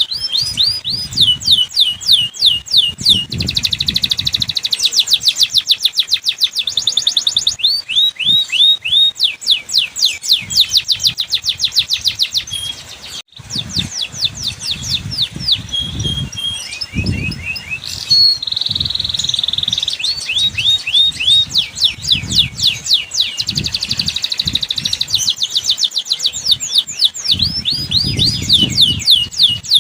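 Domestic canary singing a long, continuous song of rapid trills: runs of fast, repeated, downward-sweeping notes that switch to a new phrase every few seconds, with a brief break about halfway through.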